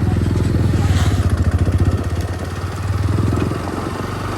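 Motorcycle engine running with a steady low, rapid pulse that eases and drops a little in level after about three and a half seconds.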